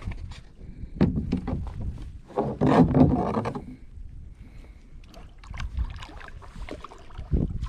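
Kayak handling noises: scattered knocks and clatter on the hull, with a louder stretch of noise lasting about a second roughly two and a half seconds in, over a low rumble.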